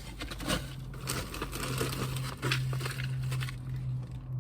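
Crinkling and clicking of food packages being handled, plastic wrappers and small cans set down and picked up, over a low steady hum.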